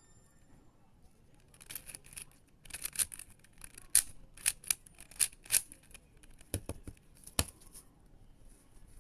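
A Rubik's cube being turned by hand: irregular plastic clicks and clacks, thickest in the middle, with two heavier knocks near the end.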